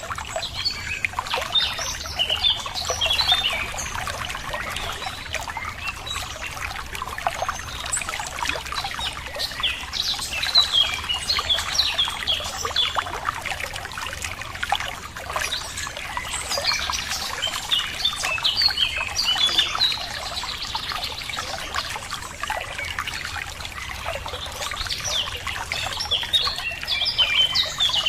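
Running water trickling steadily, with songbirds chirping in short flurries every several seconds.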